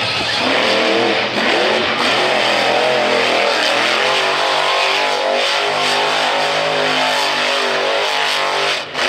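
Monster truck engine running at high revs, its pitch rising and falling, with rock music from the arena speakers underneath.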